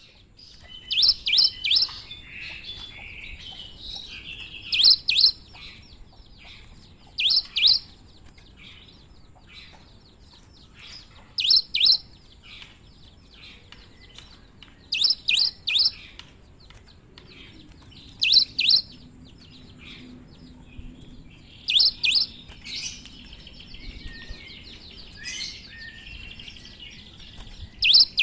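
Cinereous tit (gelatik batu) singing persistently: loud groups of two to four sharp, high whistled notes about every three to four seconds, with softer chattering notes between them.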